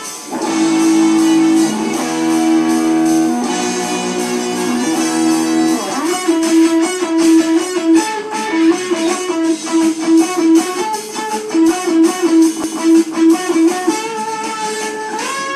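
Band music led by an electric guitar: long held notes for the first few seconds, then from about six seconds in a quick repeated-note melody with a pulsing beat, shifting to a new phrase near the end.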